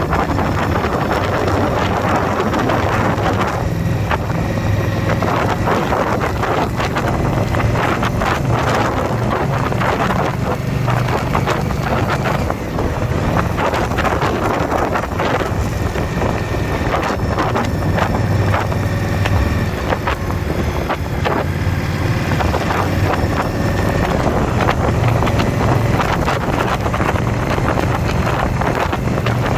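Motorcycle engine running at road speed, its low drone rising and falling with the throttle, under heavy wind noise on the microphone.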